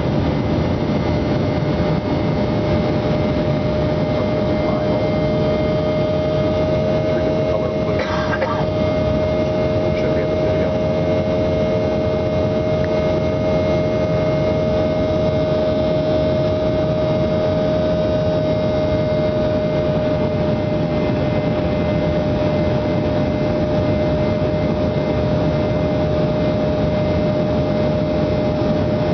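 Steady aircraft engine noise heard inside the cabin: a constant loud rush with a steady droning hum that does not change pitch.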